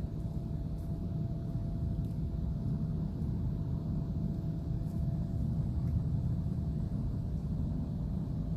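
A car's 2.2-litre engine running steadily with a low rumble, just after being started from long storage.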